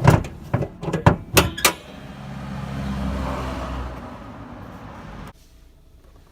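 Several sharp knocks or clicks in quick succession in a car, followed by a swell of vehicle running noise that rises, fades and cuts off suddenly about five seconds in.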